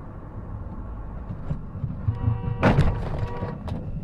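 Vehicle road noise as a steady low rumble. About two and a half seconds in comes a loud, sudden crash-like impact, with a held steady tone sounding around it for about a second and a half.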